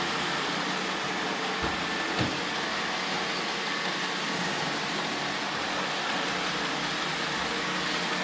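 iRoomba robot vacuums running steadily, a constant motor and fan hum with brush whirr, with two light knocks about a second and a half and two seconds in.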